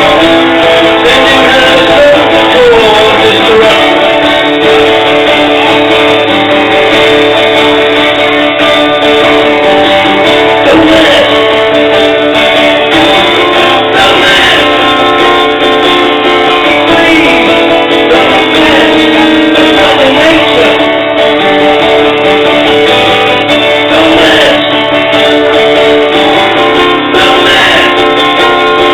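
Live guitar music playing continuously at a steady, loud level.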